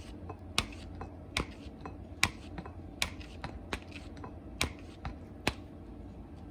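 Cat eating: sharp chewing clicks at an irregular pace of roughly one a second, over a steady low hum.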